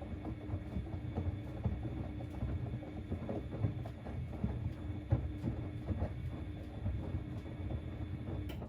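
Siemens Extraklasse XLS 140 A washing machine turning its drum during the boil wash: a steady motor hum and a low rumble with irregular knocks. It stops with a click near the end.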